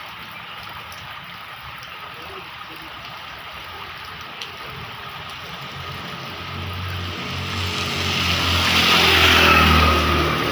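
Steady heavy rain, with a motor vehicle approaching over the second half and passing close near the end: engine and tyres hissing on the wet road, rising to the loudest point and then easing.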